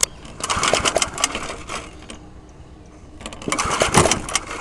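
Old lawnmower's recoil starter pulled twice, each pull spinning the engine over in a fast clattering rattle of about a second and a half. The engine does not catch on a cold start at full throttle.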